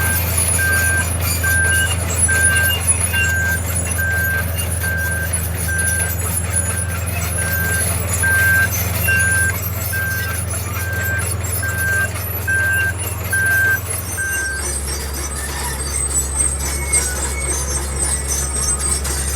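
Heavy earthmoving machine's diesel engine running steadily while its reversing alarm beeps at an even pace, about one and a half beeps a second. The alarm stops and the engine note drops about three-quarters of the way through, as the machine stops backing up.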